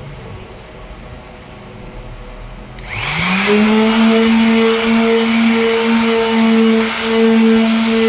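Electric sander switched on about three seconds in: a click, then the motor spins up in a rising whine to a steady speed and runs on with a steady hum and hiss.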